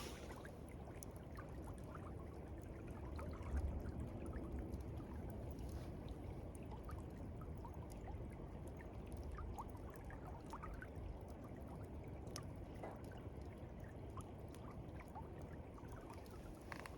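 Steady rush of river water, with faint scattered ticks and a brief louder bump about three and a half seconds in.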